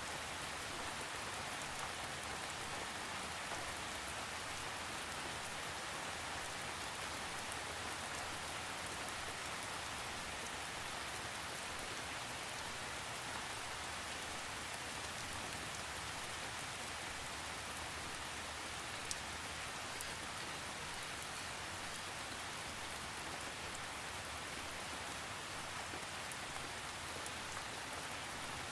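Steady rain falling on a surface, an even hiss with scattered individual drop ticks; no thunder.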